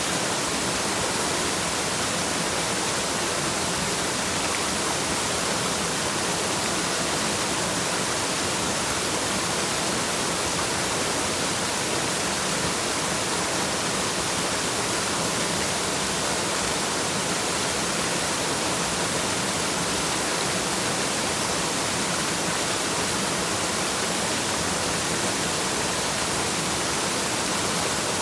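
Waterfall: water pouring and splashing as a steady, unchanging rush.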